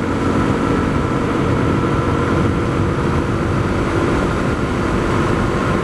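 Honda CRF250L's single-cylinder engine running at a steady cruising speed, mixed with wind and road noise while riding.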